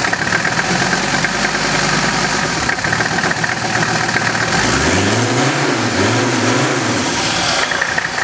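Mercedes-Benz OM617 turbo-diesel inline five-cylinder, freshly swapped in and just started for the first time, running with a steady diesel clatter, then revved up and back down three times in quick succession in the second half.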